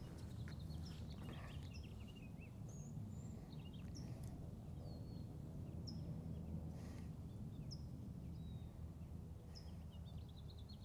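Quiet open-air background with a low steady rumble and faint, scattered short bird chirps throughout.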